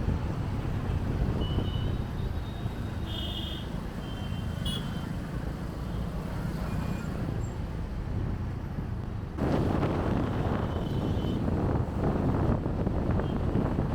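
City road traffic heard from a moving motorcycle: a steady low rumble of engines and tyres, with several short high beeps in the first few seconds. About nine seconds in, a louder rush of wind and road noise sets in.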